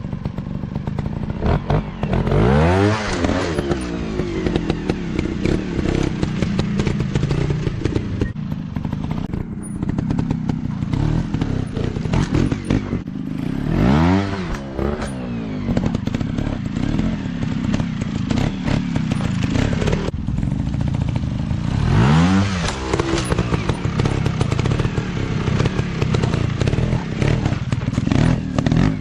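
Dirt bike engine running, revved up and back down four times, the pitch climbing and falling each time.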